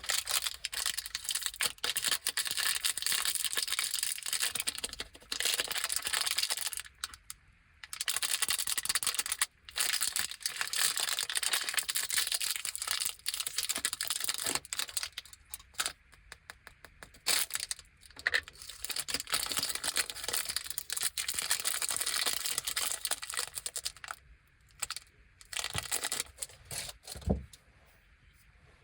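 Crinkly plastic candy wrappers being handled and torn open by hand: small individual bags of Anpanman chocolates, with several brief pauses between bouts of crinkling.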